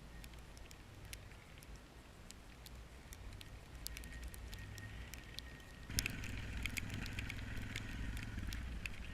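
A vehicle engine running low and steady, with scattered crackling ticks. About six seconds in, a louder rushing noise sets in and continues.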